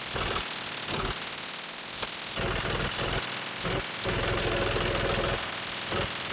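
Heavy diesel engine running with repeated knocks, growing louder and steady from about four to five and a half seconds in.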